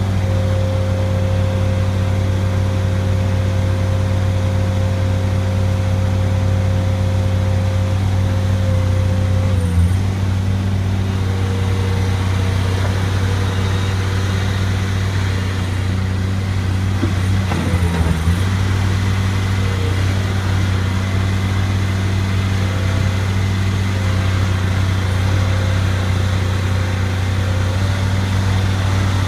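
Bobcat skid-steer loader's engine running steadily under a steady whine. The sound briefly dips and wavers twice, about ten seconds in and again around seventeen to eighteen seconds in.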